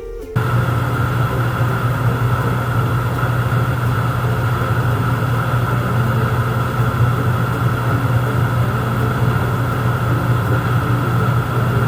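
A steady mechanical drone of a running motor, with a strong low hum and a higher whine over a noisy hiss, starting abruptly about half a second in.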